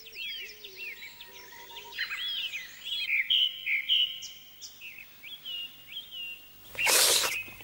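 Birdsong: a series of quick chirps, short notes that rise and fall, repeating over a quiet background. Near the end comes a short, loud, hissing burst.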